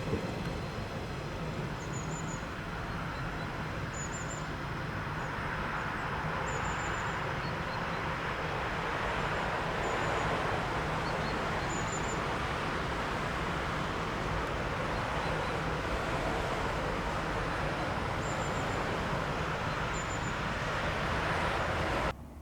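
Train running out of the station: a steady rolling rumble and rail noise that swells toward the middle, with faint short high squeaks every couple of seconds. It stops abruptly near the end.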